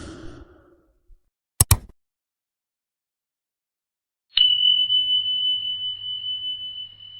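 Two quick clicks, then after a gap a single high bell-like ding that rings on with one steady tone, slowly fading.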